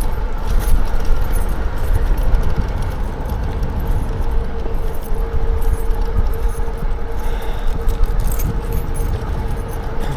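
Riding noise from a Lectric XP4 folding e-bike on a paved path: wind rumbling on the microphone, tyre noise, a light metallic rattle from the bike, and a faint steady whine.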